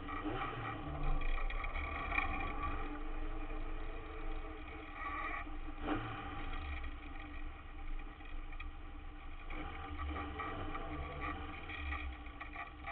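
An autograss race car's engine running gently at low revs, heard from inside the stripped cabin as the car rolls slowly. A single sharp knock comes about six seconds in.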